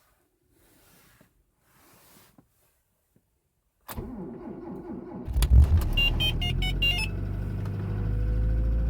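1988 Mitsubishi Galant cold-starting at -18 °C: a click, the starter cranks for about a second and a half, and the engine catches about five seconds in with a burst of short high-pitched chirps for about a second. It then settles into a steady idle.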